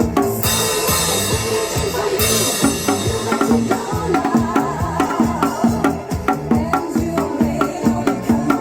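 Janggu (Korean hourglass drum) struck by hand and stick in a steady, quick rhythm over disco-style backing music. A bright hissing wash sits over the first two seconds.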